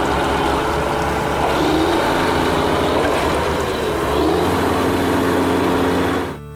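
Heavy vehicle engine running steadily, with a low drone and a rushing noise on top and a brief rise in pitch twice, as in a revving; it cuts off suddenly near the end.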